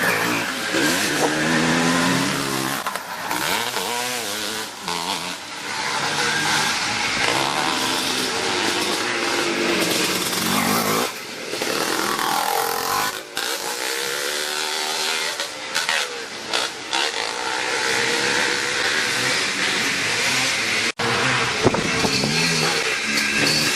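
Classic twin-shock motocross motorcycles racing, their engines revving up and down in rising and falling pitch as they accelerate and pass. There is a brief sudden break near the end.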